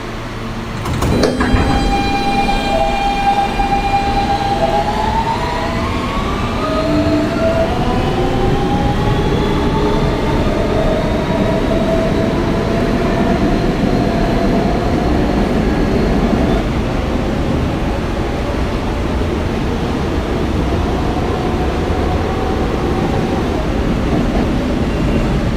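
Kawasaki R160B subway car's Siemens traction motors pulling away from a station: after a sharp knock about a second in, a steady whine begins climbing in pitch as several tones rising together, levelling off later as the train reaches speed, over the continuous rumble of wheels on rail.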